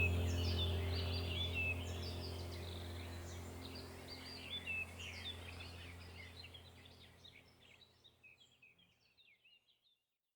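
Many small birds chirping and twittering over a steady low hum, the whole fading out to silence in the last couple of seconds.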